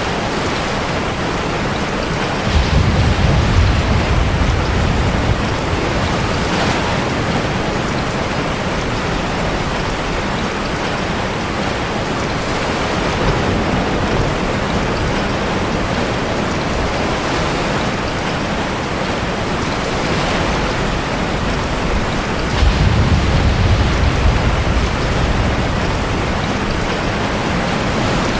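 Steady heavy rain mixed with crashing sea waves. Two deep wave surges swell up, one a couple of seconds in and one near the end.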